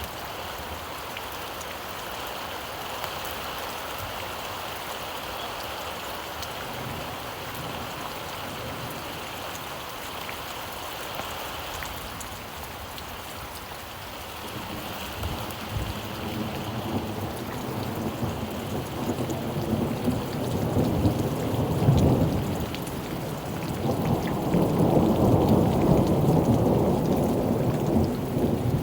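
Steady rain, with a long roll of thunder rumbling in from about halfway and loudest near the end.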